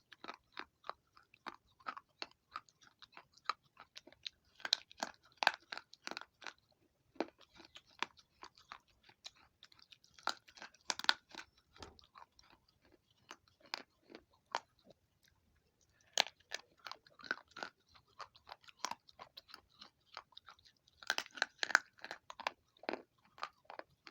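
Baked clay pot pieces crunching between the teeth in bites: sharp crackling crunches that come in dense runs about four times, with sparser chewing crunches between.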